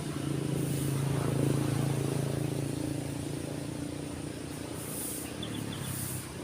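A motor vehicle passing on a road, its steady engine hum swelling over the first couple of seconds and then fading, over the continuous wash of waves on the beach. A few faint bird chirps come near the end.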